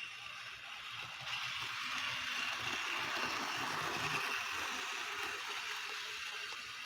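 Model Royal Blue steam locomotive running along the track, its motor and wheels whirring with a faint high whine; it grows louder from about a second in, is loudest around the middle, then fades as it moves away.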